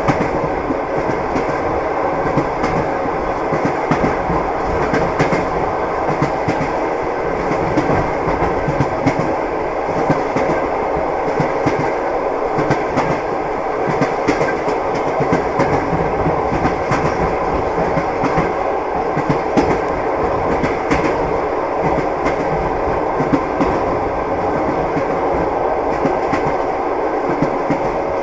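Train running steadily with the clickety-clack of its wheels over the rail joints, a continuous rumbling clatter.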